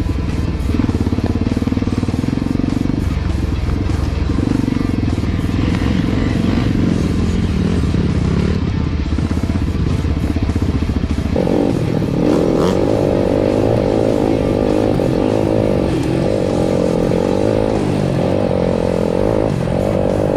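Dirt bike engine running and revving, with music alongside. About halfway through, the sound changes abruptly to a higher, wavering pitch.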